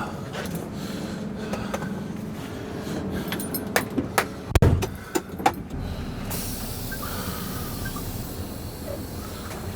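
Keys jangling and a series of clicks and knocks in a car, with a heavy thud like a car door shutting about four and a half seconds in, then a steady hiss.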